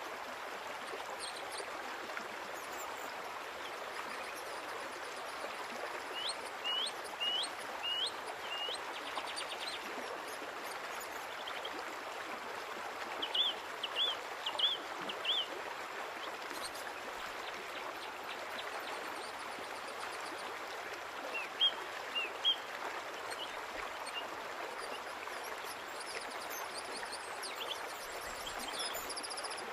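A small bird chirping in three short runs of three or four quick high notes, over a steady rushing hiss like flowing water.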